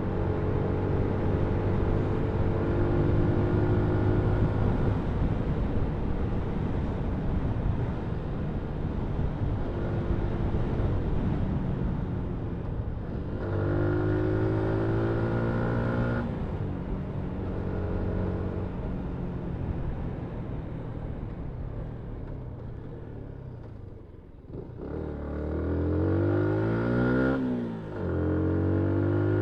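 Yamaha MT-125's single-cylinder 125cc engine heard from on board while riding: the engine runs at steady cruising revs, fades almost away near the end as the throttle is closed, then revs climb quickly, with a short break for a gear change before settling again.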